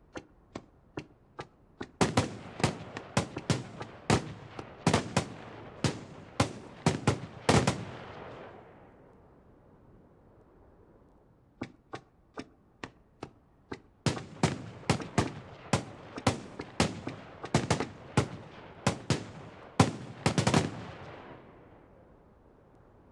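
Fireworks going off in two volleys of sharp bangs. Each volley starts with a run of smaller pops, about three a second, then moves into louder bangs two or three a second that fade out over a second or so. The second volley begins about twelve seconds in, after a short quiet gap.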